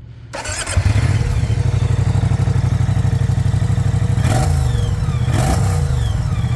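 Moto Guzzi V100 Mandello's transverse V-twin starts up under a second in and idles with a steady pulse, then is blipped three times in the second half, each rev rising and falling quickly.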